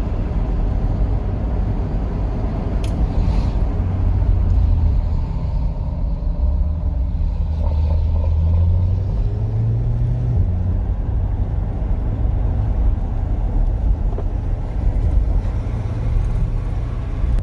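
Chevrolet Corvette C8's V8 with a custom exhaust running steadily, a deep continuous exhaust rumble whose pitch shifts a little a few times, stepping up around the middle.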